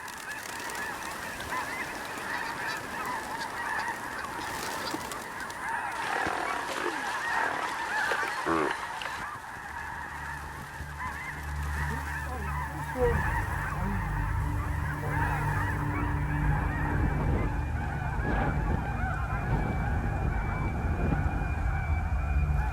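A flock of geese honking, many calls overlapping. A low steady rumble comes in about halfway through and grows stronger.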